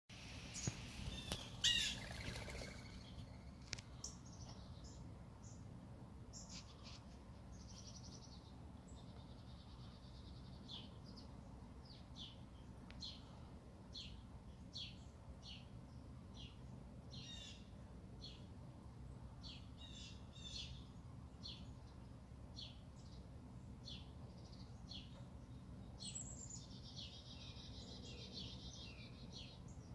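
Small songbirds calling: a string of short, separate chirps, with buzzy trills about eight seconds in and again near the end, and a louder sound about two seconds in.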